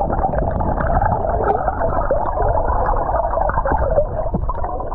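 Flowing creek water heard from underwater: a loud, muffled rushing and gurgling with all the higher sound cut away.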